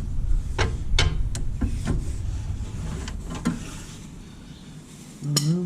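Metal hand tools clinking against the suspension bolt and each other: a string of sharp, irregular clicks over a low rumble of handling noise that fades away after about three seconds.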